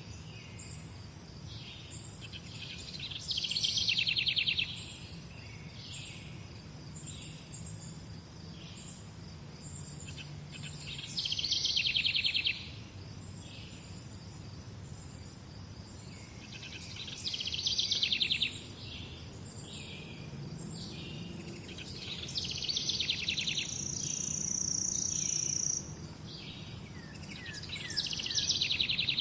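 Morning birdsong: a loud, rapid trilled phrase repeats about every six seconds, with softer short chirps between. One phrase near the end holds a high whistled note for a couple of seconds.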